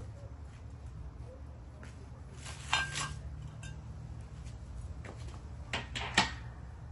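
Metal tools and mower parts being handled: a few sharp metallic clinks and knocks, the loudest about three seconds in with a short ring, and three more near the end, over a steady low hum.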